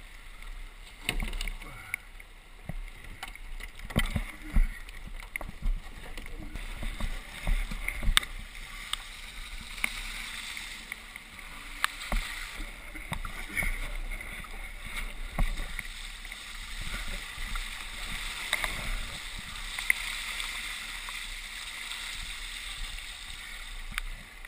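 Rushing water of a strong 6-knot ebb tidal current: a steady hiss with irregular knocks and thumps, the loudest about four to five seconds in.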